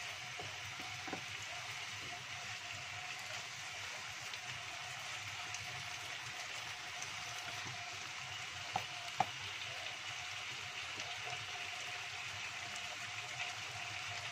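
Stir-fried vegetables and meatballs sizzling in a wok, a steady hiss, with a few light clicks of a wooden spatula against the pan and two sharper taps about nine seconds in.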